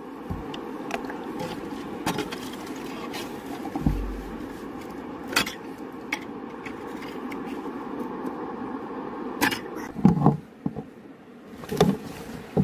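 River water running steadily, with stones clicking and knocking against each other as rocks are shifted and pried at by hand; several louder knocks come in the second half.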